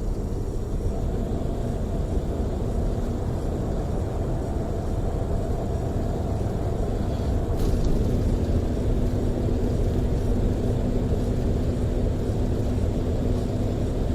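Steady low rumble of a tour coach running at highway speed, heard from inside the passenger cabin: engine and tyre noise with a faint steady hum, growing slightly louder a little past halfway.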